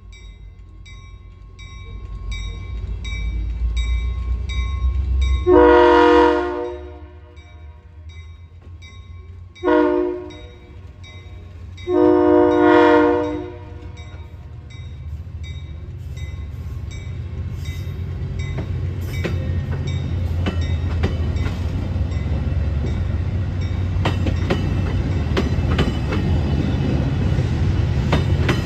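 Locomotive horn sounding a chord three times: a long blast, a short one about four seconds later, then another long one, over the low rumble of an approaching train. The train then draws close, its rumble and the clicking of wheels over rail joints growing steadily louder.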